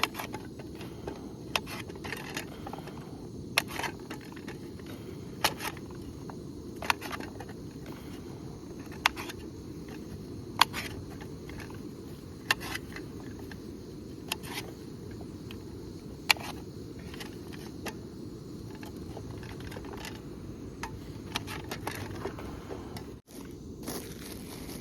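Wood campfire crackling, with sharp irregular pops every second or two over a steady low rumble; the sound drops out briefly near the end.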